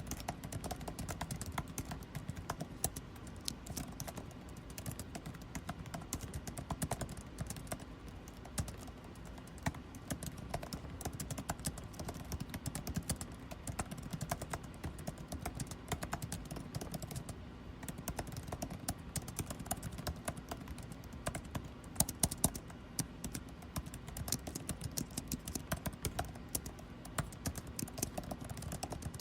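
Computer keyboard typing, rapid irregular key clicks that go on without pause, over the steady low hum of air conditioning.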